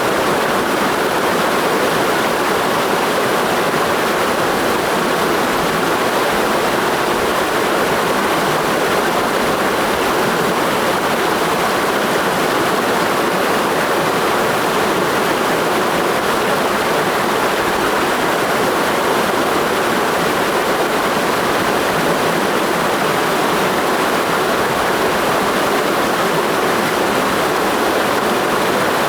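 Mountain gorge stream flowing, a steady, unbroken rush of water.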